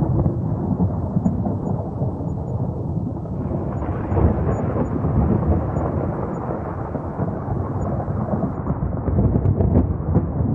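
Thunder rumbling continuously in a long, rolling peal, deep and crackling, with no single sharp clap.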